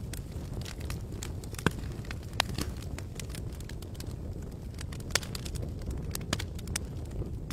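Wood campfire crackling: irregular sharp pops and snaps, a few of them louder, over a steady low rumble of flame and outdoor ambience.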